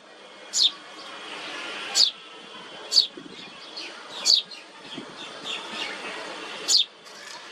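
A small songbird giving sharp, high chirps that drop quickly in pitch, five of them spaced a second or two apart, over faint steady background noise.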